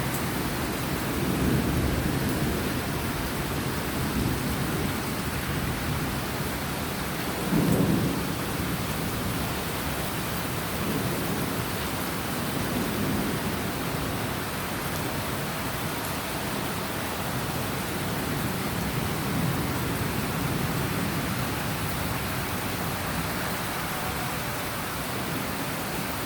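Rain falling steadily, with low rumbling swells every few seconds, the loudest about eight seconds in.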